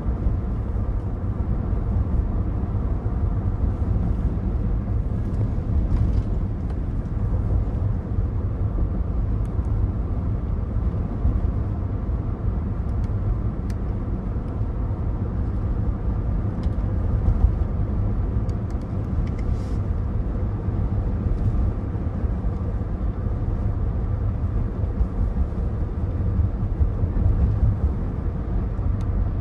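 Cabin noise of a 2024 Cadillac Escalade ESV under way: a steady low road and tyre rumble with a faint even hum, unchanging throughout.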